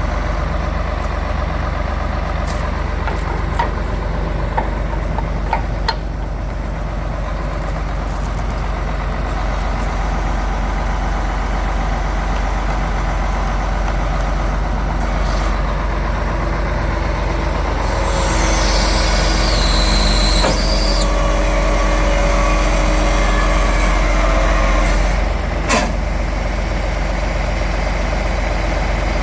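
Iveco 380E42 heavy-duty 6x6 truck's diesel engine idling steadily. A few seconds of louder hissing come past the middle, and a sharp click follows near the end.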